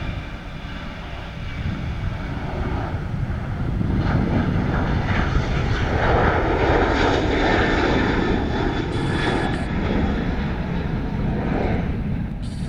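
Jet airliner engines roaring as a plane passes near the runway, the sound swelling a couple of seconds in, loudest in the middle, then easing slightly.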